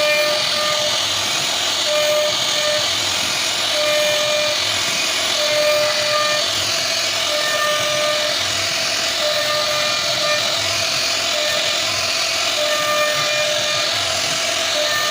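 Wood CNC router cutting a flower design: a steady, high hissing whine from the spindle and bit in the wood, with short pitched tones from the axis motors coming and going as the head moves.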